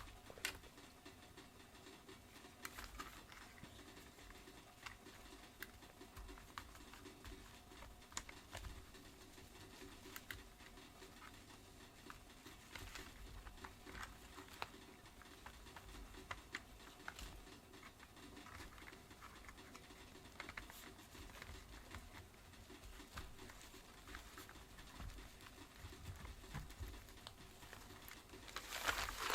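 Faint, scattered clicks, taps and scratches of plastic vacuum-cleaner brush-head parts being handled during disassembly, with a louder clatter near the end.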